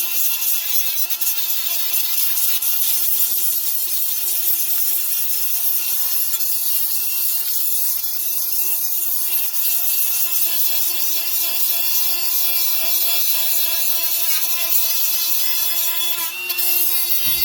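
Milwaukee M12 cordless die grinder running with a Scotch-Brite abrasive pad against an old brake rotor: a steady high motor whine under an abrasive scrubbing hiss, briefly dipping near the end.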